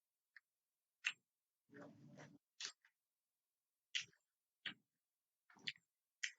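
Eating sounds: about eight short, faint clicks and mouth smacks spread out, with a softer rustle about two seconds in, and near silence between.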